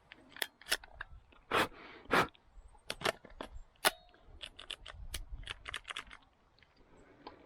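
A series of irregular sharp clicks and knocks, some louder than others, spread through the whole stretch with no steady motor sound.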